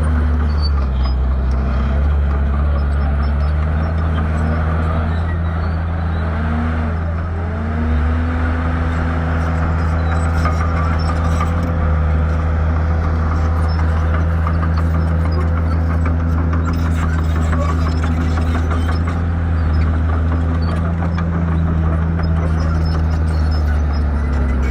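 Shantui bulldozer's diesel engine running steadily, its pitch dipping and then rising again about seven to eight seconds in.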